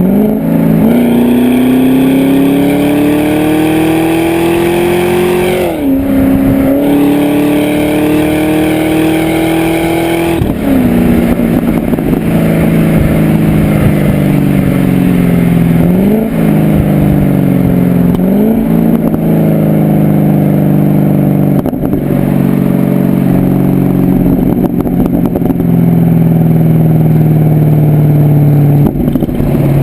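Pontiac G8 GXP's LS3 V8 through a Corsa exhaust, heard from behind the car: it pulls up through the gears with upshifts about 6 and 10 seconds in, then eases off and settles to a steady cruise, with two brief rises in revs midway.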